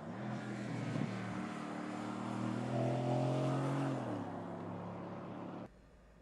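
Mercedes-AMG GT's twin-turbo V8 accelerating, its note rising for about four seconds and then dropping as it eases off. The sound cuts off abruptly near the end.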